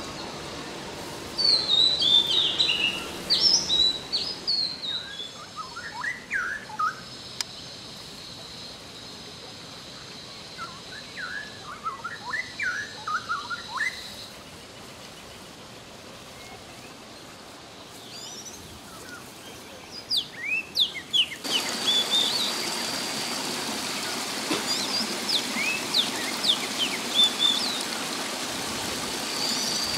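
Wild birds chirping and calling, with bursts of quick high down-sweeping chirps and lower twittering phrases. About two-thirds of the way through, a steady background hiss and a thin steady high tone come in under further chirps.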